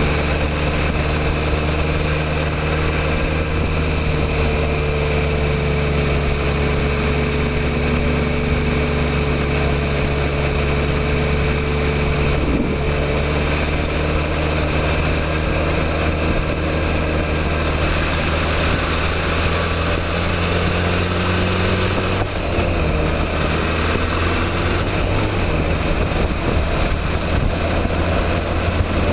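Motorcycle engine running at a steady pace under way, with wind and road noise over it. The engine note breaks briefly twice, about halfway through and again about 22 seconds in, like gear changes.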